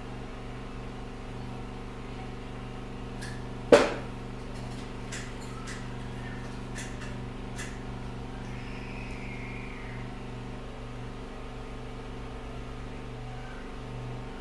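Steady low electrical hum with one sharp click or knock a little under four seconds in, followed by a few faint ticks.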